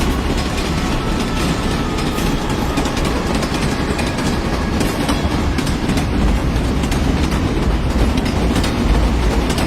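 A train running along its track: a steady rumble with a light clickety-clack of wheels.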